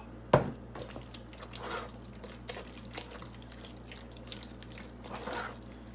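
A sharp click about a third of a second in, then soft wet squelching and dripping as thick cream-cheese buffalo chicken dip is stirred in a bowl with more hot sauce being mixed in.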